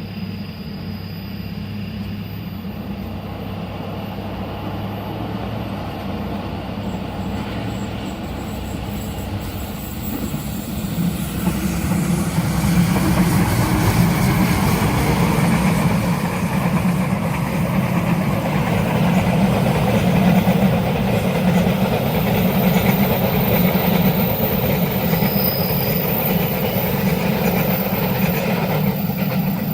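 A train approaching and passing at speed, its noise rising sharply about twelve seconds in and staying loud as the carriages run by.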